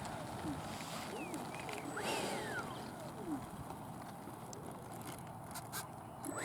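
Birds calling with short rising-and-falling and falling chirps, several times, over a steady outdoor background hiss.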